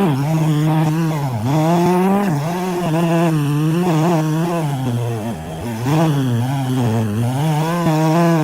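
Engine of a wood-cutting saw running hard in a log, its steady note sagging in pitch several times as the cut loads it, most deeply about five seconds in, then picking back up.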